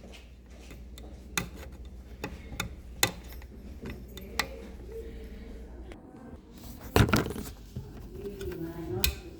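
Scattered light clicks and knocks of small parts and tools being handled, with one louder knock about seven seconds in. A low hum stops about six seconds in.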